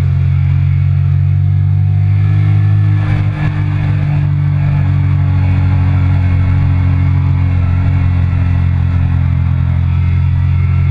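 Triumph Speed Triple 1050's three-cylinder engine running hard at a steady pitch at speed, with a brief dip in the engine note about three seconds in.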